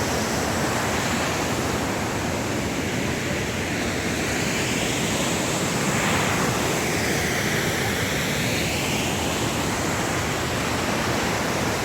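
Turno Fakcha waterfall: a steady, loud rush of falling water, its tone shifting slightly midway.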